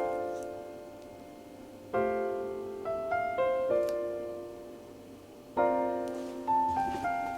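Background piano music: soft chords struck about every two seconds, with a few single melody notes between them, each left to ring and fade.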